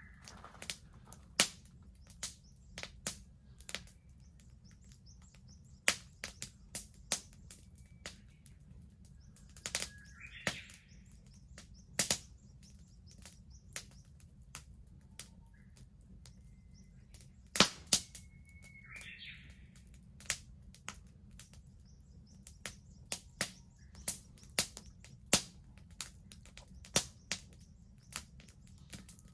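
Wood bonfire crackling, with sharp pops at irregular intervals. A bird calls a few times in the background.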